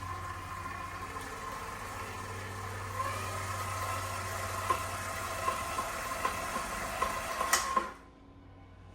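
Electric stand mixer running with a batch of dough in the bowl: a steady motor hum that gets a little louder about three seconds in, with light knocks recurring under it. It is switched off near the end and the hum stops abruptly.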